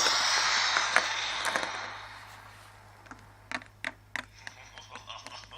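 A loud noisy rush that fades away over about two seconds, followed by a run of irregular sharp clicks, the mysterious ticking noise.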